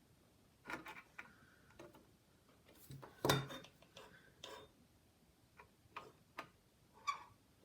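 Scattered light clicks and taps of small tools and parts being handled at a soldering bench, irregular, with one louder knock about a third of the way in.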